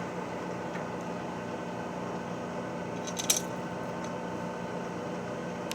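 A metalworking machine running steadily with a hum of fixed pitches and no cutting noise. A single short metallic clink comes about three seconds in.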